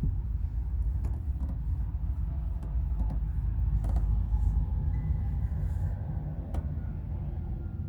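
Low rumble of highway traffic, swelling about halfway through as a vehicle goes by.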